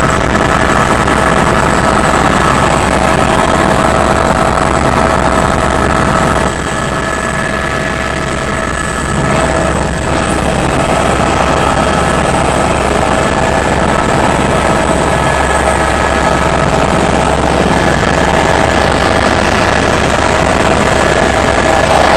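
Helicopter in flight: continuous rotor and engine noise with a steady high whine over it, easing slightly for a few seconds about a third of the way through.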